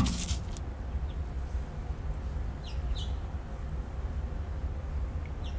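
A sharp knock at the very start, then a few short, high bird chirps about three seconds in and once more near the end, over a steady low rumble.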